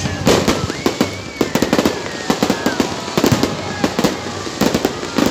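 Aerial fireworks bursting overhead: an irregular, rapid string of sharp bangs and crackling pops, coming in clusters throughout.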